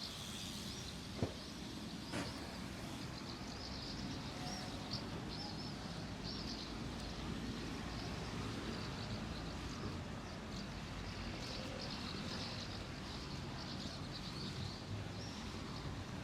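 Many small birds chirping repeatedly over a steady low rumble of town traffic, with two sharp clicks in the first couple of seconds.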